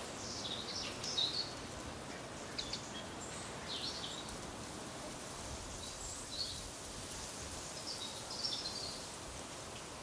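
Short, high-pitched bird calls come in scattered clusters over a steady background hiss of outdoor ambience.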